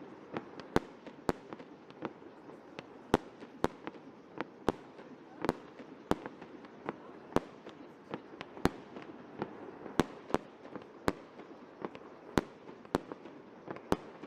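Fireworks going off: irregularly spaced sharp bangs, about two a second, over a steady noisy background.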